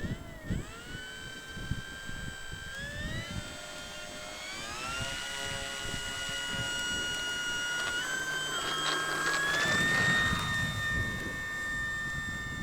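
Durafly Slow Poke RC plane's electric motor and propeller whining as the throttle is opened. The pitch steps up about 3 s and 5 s in, rises again around 8 to 10 s, then holds a steady high whine, loudest about 10 s in.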